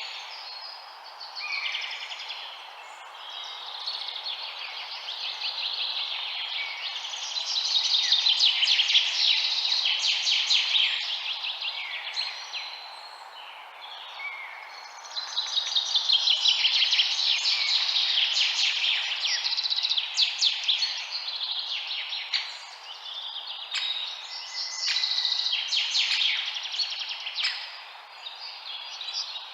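Many small birds chirping together in a dense chorus, swelling and fading in waves over a steady background hiss. The chorus is loudest about a quarter of the way in and again around the middle.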